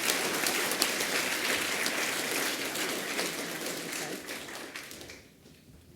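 An audience of schoolchildren clapping in a round of applause, fading away about five seconds in.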